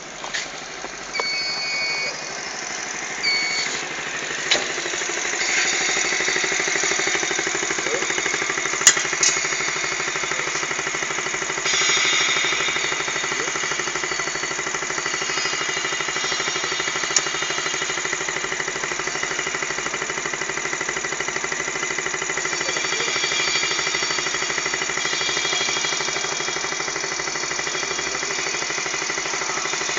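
Motorcycle engine running on a test bed with a fast, even chugging pulse. It builds up over the first few seconds and then holds steady. A few short high beeps and clicks sound near the start.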